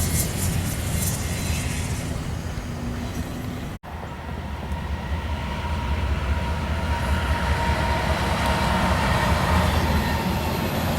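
Freight train running past on the rails with a steady rumble and wheel noise. It cuts off abruptly about four seconds in, and a second train's rumble builds up after, with faint high-pitched tones over it.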